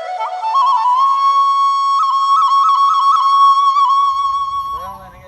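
Solo flute playing a slow melody with quick ornamental turns on held notes, the instrumental opening of a Nepali song. Near the end the flute fades out and a low rumble comes in.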